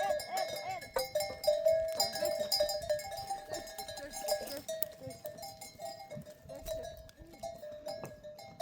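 Metal livestock bells clinking and ringing on and off throughout, as the herd's sheep and goats move about.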